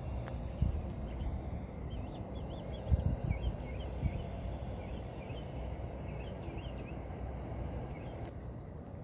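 Birds chirping in repeated short, curling phrases over a steady low rumble, with a few dull thumps, the loudest about three seconds in.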